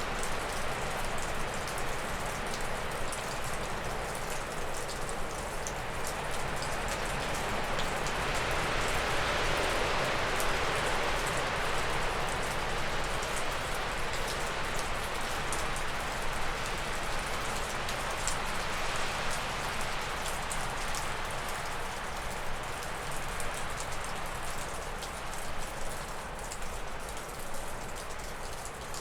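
Wind gusting through spruce and birch treetops, a steady rushing that swells about a third of the way in and then eases, with meltwater from melting snow dripping off a roof in fine, scattered ticks.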